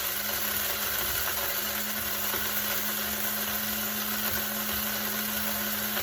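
Link Chef CG-8420 electric coffee grinder running steadily, grinding whole coffee beans, a loud even whir with a steady hum underneath.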